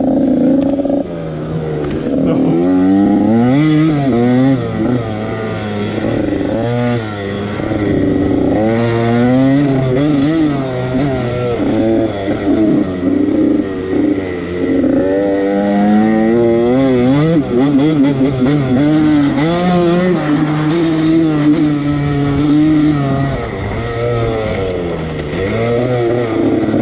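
Husqvarna TC85's two-stroke 85cc engine revving hard as the dirt bike is ridden, its pitch climbing and dropping again and again through throttle and gear changes. A few short clatters come through now and then.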